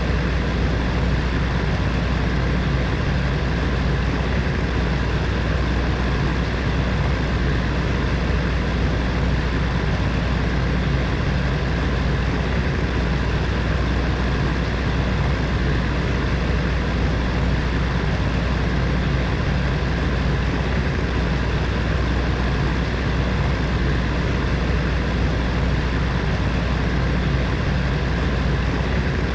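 Space heater's fan running steadily, a constant rushing air noise over a low motor hum.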